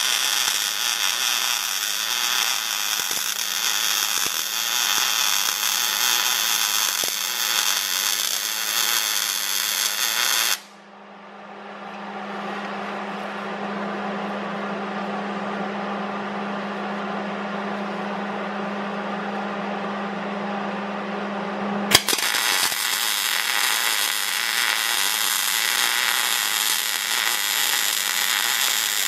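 A power tool runs steadily on steel frame work. The sound changes abruptly about a third of the way in and again about three quarters in; in the middle stretch it builds up from quiet over a couple of seconds.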